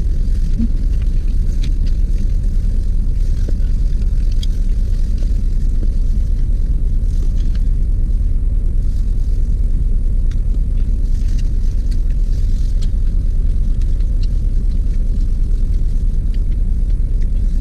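Steady low rumble of a parked car's idling engine heard inside the cabin. Faint ticks and rustles of chewing and a plastic glove sit on top.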